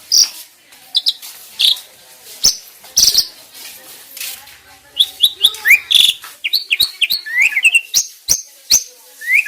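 Asian starling (jalak) song: loud, sharp call notes and clicks, breaking about five seconds in into a fast run of chirps and rising whistles.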